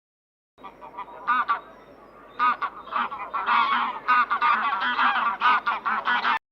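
A flock of birds calling: many short, repeated calls that overlap one another, starting about half a second in and stopping just before the end.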